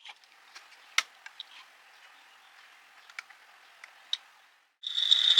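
A few light clicks of small parts being handled, then near the end the little DC motor of a soda-can model locomotive starts with a loud, high whine.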